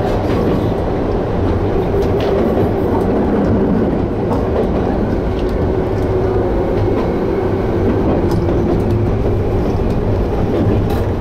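Toyama Chiho Railway Tateyama Line electric train running: a steady rumble of wheels on rail under a steady hum, with a few faint clicks.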